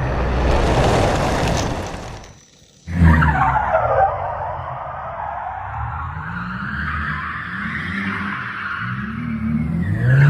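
Supercar sound effects: a rushing swell that fades out, then after a brief break a sudden start into engine revving with screeching tyre squeal sliding up and down in pitch.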